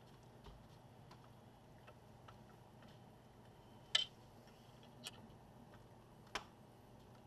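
Faint small clicks and taps of tools and small parts being handled while a laptop's cooling fan is fitted, with three sharper clicks about four, five and six and a half seconds in, the first the loudest.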